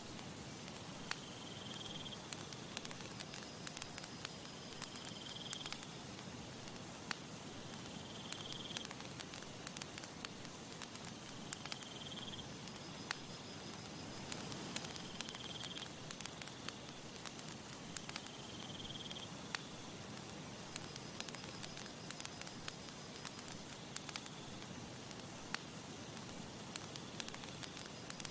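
Campfire crackling, with frequent sharp pops and snaps over a steady soft hiss. A short high chirp repeats about every three to four seconds.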